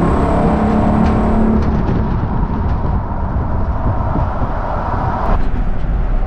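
Mustang 5.0-litre V8 in a 1960 Ford F100 pickup running as the truck drives down the road. Its engine note is heard for the first second or so, then gives way to a steady rumble of road and wind noise.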